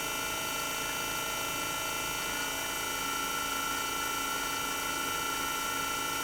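Toshiba DA91A1F twin rotary inverter compressor running, heard close with its sound-deadening removed: a steady hum with a high inverter whine, whose tones shift slightly about two and a half seconds in.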